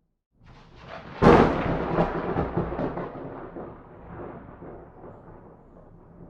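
A thunderclap: a low rumble builds, a sharp crack comes just over a second in, then the thunder rolls and fades away over several seconds.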